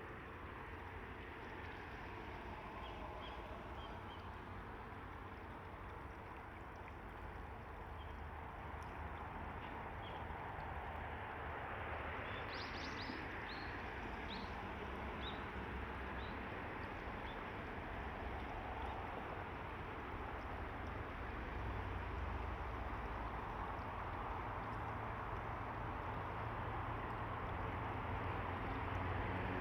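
Steady rush of running river water, slowly growing louder, with brief high chirps of small birds. The chirps come a few times and cluster about halfway through.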